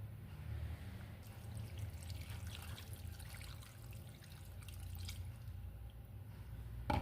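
Water trickling and splashing over a steady low hum, cutting off abruptly at the end.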